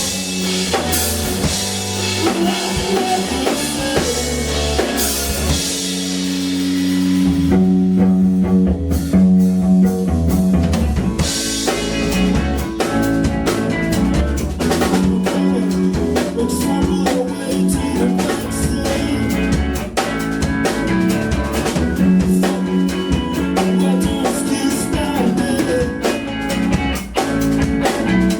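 Live band music with a drum kit playing a steady beat, rimshots and bass drum, over bass and guitar; the drums drop back briefly about a third of the way in, then the full band comes back in.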